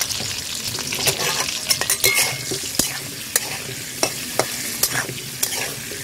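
Potato pieces sizzling in hot oil in a metal kadai while a steel spatula stirs them, scraping and clinking against the pan at irregular moments.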